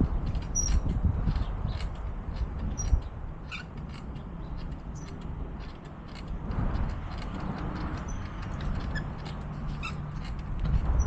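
Riding noise from a bicycle on the move: a steady low rumble of wind and rolling tyres, with frequent sharp clicks and rattles and a few short high chirps.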